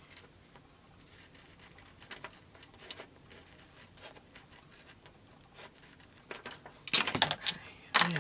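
Craft knife scratching through a magazine page in short faint strokes, then a louder rustle of paper being handled near the end.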